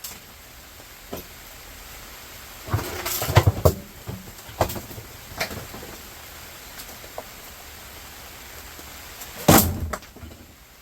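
Knocks and clatter of appliance scrap being handled and pried apart: a quick cluster of bangs about three seconds in, a couple of single knocks, and the loudest bang about nine and a half seconds in.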